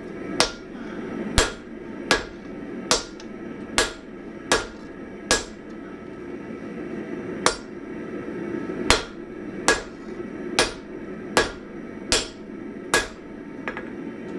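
Hammer blows on hot 1045 steel on an anvil, forging an ax blank to shape. There are about fourteen sharp strikes at a bit more than one a second, with a pause of about two seconds midway.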